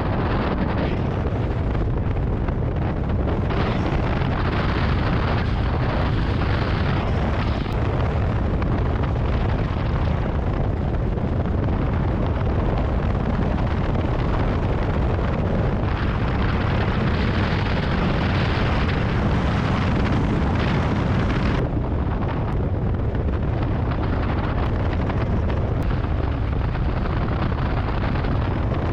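Strong wind buffeting the microphone in a steady, loud rumble that never lets up.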